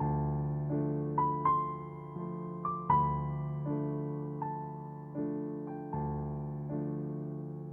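Background piano music: slow chords struck about every three-quarters of a second, each fading away, with a few higher melody notes on top.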